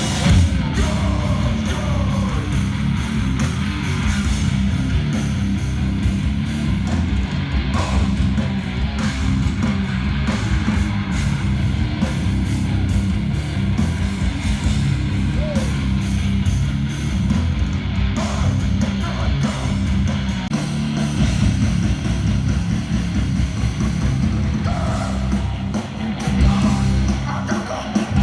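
Live hardcore band playing loud, heavily distorted guitars over pounding drums, a dense and unbroken wall of sound.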